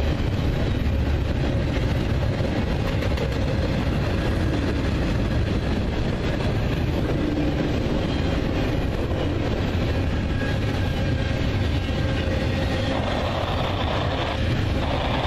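Norfolk Southern freight train rolling past, a steady, even rumble of rail cars on the track.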